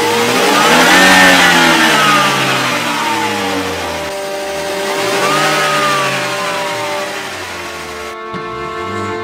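Car engine revved twice, each rev climbing and then falling away, while the exhaust pours thick white smoke: a fuel injector stuck open is sending raw fuel through the cylinder into the exhaust.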